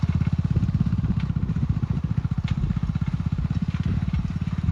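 Motorcycle engine running steadily with an even exhaust beat while pulling a dora-kulpa weeding hoe, with a few faint clattering ticks.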